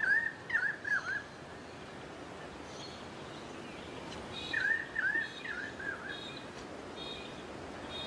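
A bird calling: a quick run of short chirping notes at the start, then the same four-note run again about four and a half seconds in, with fainter higher chirps around it.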